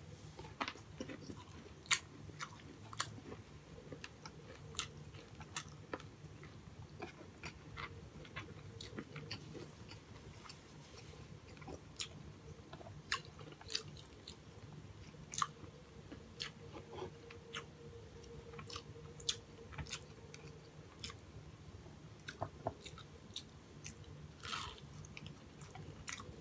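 Close-miked chewing and mouth sounds of a man eating breaded fried pork chop and rice: irregular wet smacks and soft crunches, several a second, with no steady rhythm.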